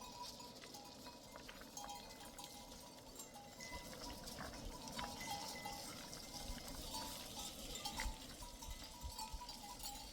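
Livestock bells on a flock clinking and ringing irregularly, a few short rings every second or so, over a faint steady background hiss.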